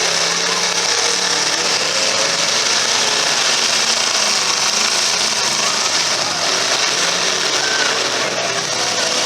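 Demolition derby cars' engines running and revving together in a steady, loud din, with no single crash standing out.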